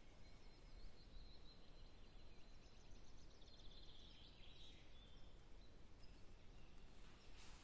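Quiet woodland ambience with faint bird song: a high, thin held note, then a rapid trill about three to four seconds in, over a low steady rumble. A single soft click near the end.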